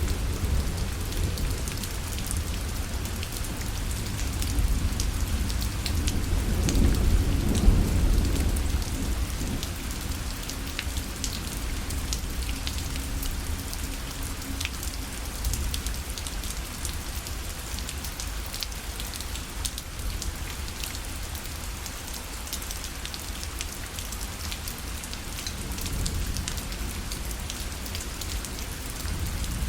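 Steady rain falling on a parasol, with many distinct drops tapping on the fabric. A low thunder rumble swells and fades about six to nine seconds in.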